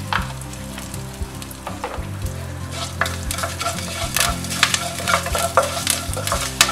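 Tempering of mustard seeds, urad dal, dried red chillies, curry leaves and asafoetida sizzling in hot oil in a nonstick kadai. A wooden spatula stirs and scrapes through it in short strokes, which come faster from about halfway in.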